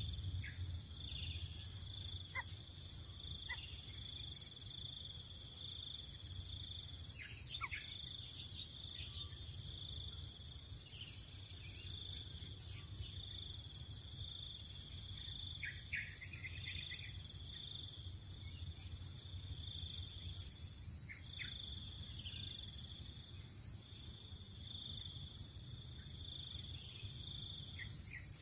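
Steady, shrill chorus of insects made of several constant high tones, one of them pulsing evenly, with scattered short high chirps throughout and a low rumble underneath.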